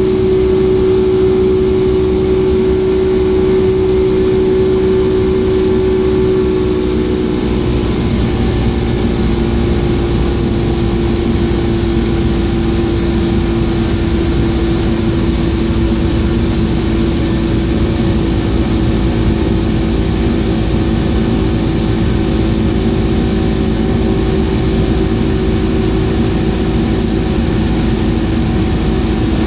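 Suzuki DT225 two-stroke V6 outboard running steadily at speed. Its engine note drops slightly in pitch about a quarter of the way in, then holds steady.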